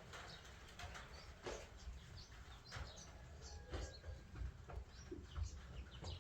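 Small birds chirping in short, scattered calls, with faint knocks and rustling and a low background rumble.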